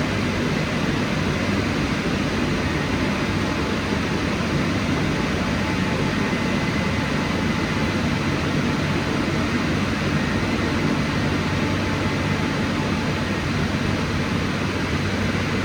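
Rollover car wash's dryer blowers running steadily: a constant rush of air over a low hum, typical of the drying stage at the end of the wash programme.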